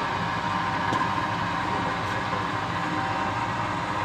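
Steady machinery running with a constant, even hum.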